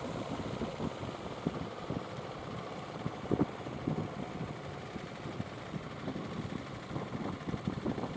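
Fishing boat engines running under a steady rush of noise, with wind buffeting the microphone in irregular low thumps.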